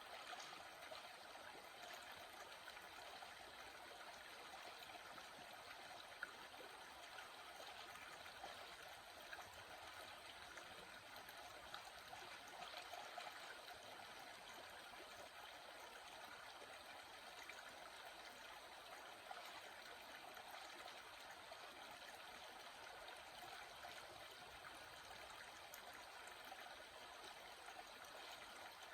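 Small water stream flowing steadily and quietly, a continuous trickling and gurgling with little splashes.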